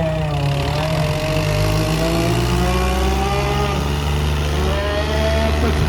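Tractor engine running loudly and steadily, its pitch slowly rising and falling as it works.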